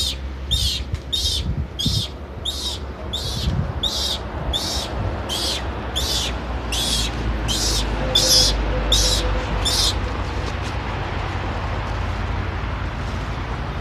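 A bird calling over and over in short, evenly spaced high chirps, about three every two seconds, which stop about ten seconds in. A steady low rumble runs underneath.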